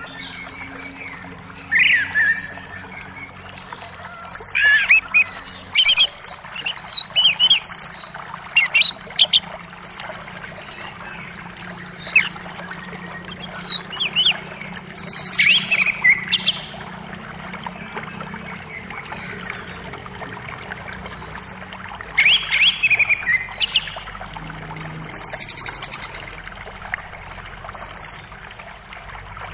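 Forest birds chirping, with one bird repeating a short, very high chirp every second or two among other brief calls. The creek's running water makes a faint steady background.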